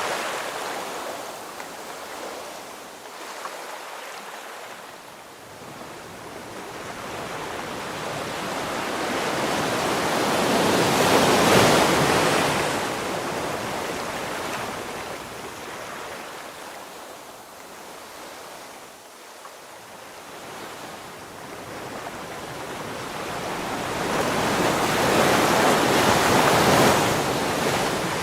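Ocean waves washing onto the shore, the surf swelling and ebbing slowly, with two big swells, one near the middle and one near the end.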